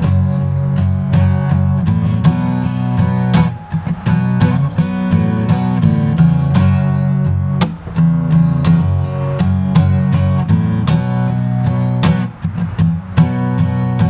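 Acoustic guitar strummed in a steady rhythm, chords ringing with a short break about every four seconds as the chords change; an instrumental passage with no singing.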